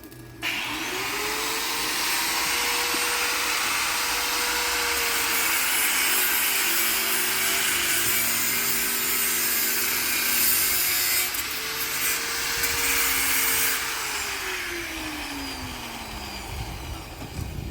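Electric grinder with an abrasive disc working steel. The motor spins up suddenly about half a second in and runs at a steady pitch under a loud grinding hiss, dipping and recovering as it loads. It winds down with a falling whine near the end.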